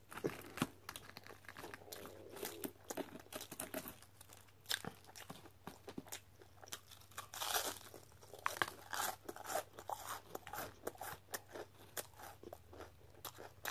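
Close-up chewing of crunchy fried onion rings: a run of crisp, crackling crunches, with softer chewing between them. A faint steady low hum runs underneath.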